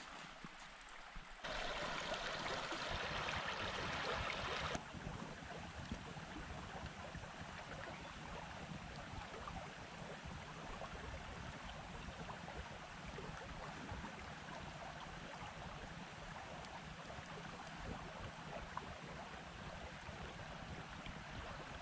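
Creek water flowing: a steady rushing noise that gets abruptly louder and brighter about a second and a half in, then drops back a few seconds later.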